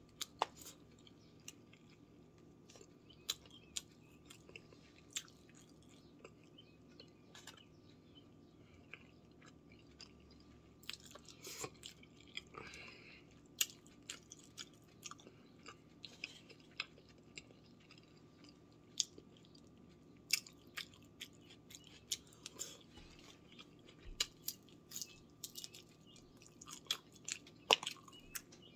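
A person chewing mouthfuls of jollof rice and fried tilapia, with many short, scattered clicks throughout and a denser patch of them about twelve seconds in, over a faint steady hum.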